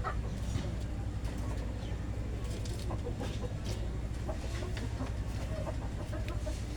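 Chickens clucking in the background over a steady low hum, with scattered faint clicks.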